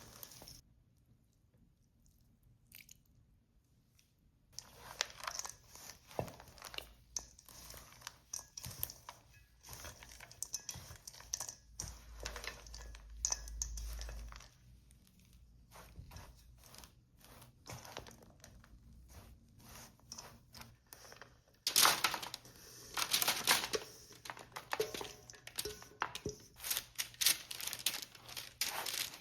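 Dry granola ingredients being handled in the kitchen: irregular rustling, crinkling and crunching with scattered clicks, starting a few seconds in, with a louder rush of rustling about two-thirds of the way through.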